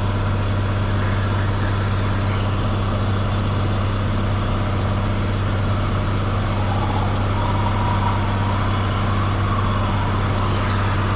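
Cessna 182 Skylane's piston engine and propeller droning steadily as heard inside the cockpit, running at a constant power setting on approach.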